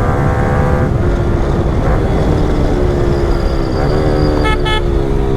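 Yamaha R15 V4's 155 cc single-cylinder engine running through a full-system Yoshimura Alpha exhaust while riding. Its pitch drops about a second in and climbs again around four seconds. Two short horn toots come about four and a half seconds in.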